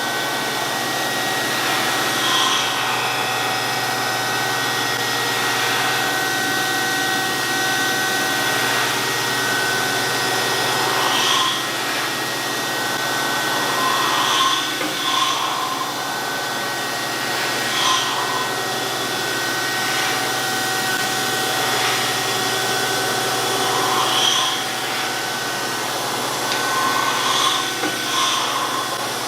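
DoAll 14-inch surface grinder running steadily, its abrasive wheel grinding a Kurt vise, with a steady whine and hiss. A brief louder grinding sound comes every few seconds, irregularly.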